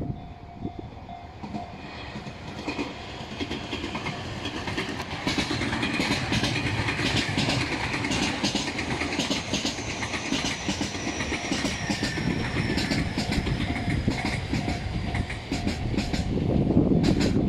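Electric commuter train passing on the station tracks, its wheels clacking over rail joints and points, with a high whine that slowly falls in pitch. A louder low rumble comes near the end.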